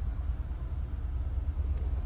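Low, steady rumble of a 2020 Nissan Altima's four-cylinder engine idling with a misfire. The mechanic suspects cylinder 4's direct injector or the engine computer.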